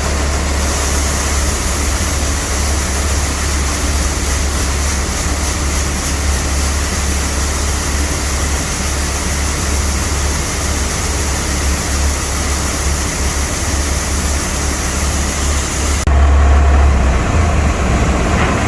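Semi truck's Caterpillar C15 diesel engine running steadily at low speed, a low rumble with a hiss over it. About 16 seconds in, the hiss cuts out and the rumble gets louder.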